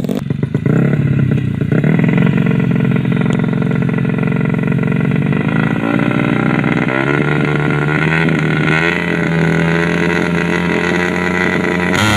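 A 130cc drag-bike motorcycle engine running loudly at held revs during carburettor and engine tuning. Its pitch stays steady and shifts once about seven seconds in.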